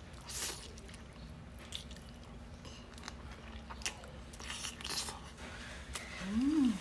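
Close-up mouth sounds of eating stewed chicken off the bone with the fingers: scattered wet smacks, bites and chewing. Near the end comes a short hummed "mmm" that rises then falls in pitch.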